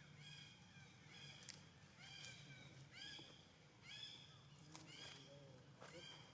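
Faint, repeated short high-pitched animal calls, about one a second, seven in all, each a clear tone that dips slightly at its end, over a steady low hum.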